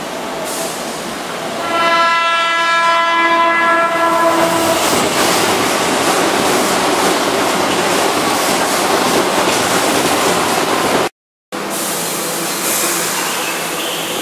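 Keihan 2600-series electric train approaching and sounding its horn, one steady note held for about three seconds, then running past with loud wheel-and-rail noise and some clatter. About 11 seconds in the sound cuts away to a quieter, steady background near a standing train.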